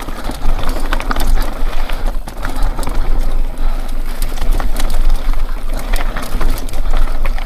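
Mountain bike clattering down a rough, rocky trail, with frequent sharp knocks and clicks from the bike over rocks and a steady low rumble underneath.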